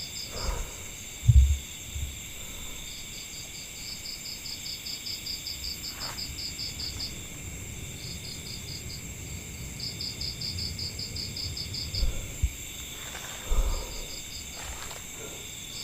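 Forest insects chirping: a steady high-pitched drone under repeated trains of rapid pulsed chirps that start and stop every few seconds. A few low thumps, the loudest about a second in and others near the end.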